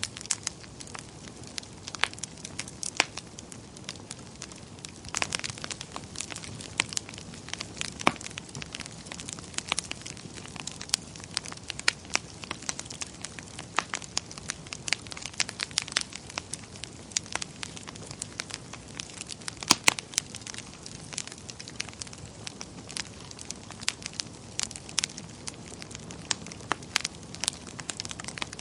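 Wood fire burning in a fireplace: a steady low hiss with frequent irregular sharp crackles and pops.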